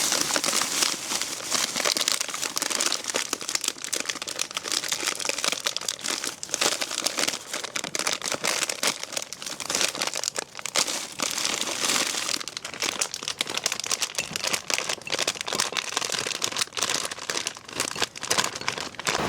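Plastic wrapping crinkling and crumpling as it is handled: a dense, irregular run of small crackles with no break.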